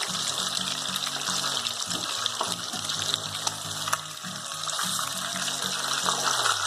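Breaded chicken pieces deep-frying in hot oil over a high flame: a steady, dense sizzle. Background music runs underneath.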